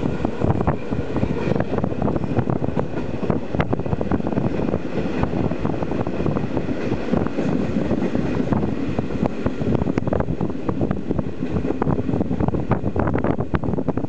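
SJ passenger train running, heard from inside the carriage: a steady low running noise of wheels on rail, with frequent small irregular knocks and rattles.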